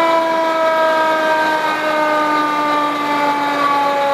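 Fire engine's siren sounding one long wail that slowly falls in pitch after a quick rise.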